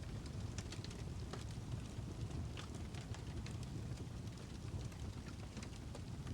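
Birch logs burning in a fireplace, crackling with irregular sharp pops and snaps over a steady low rumble of the flames.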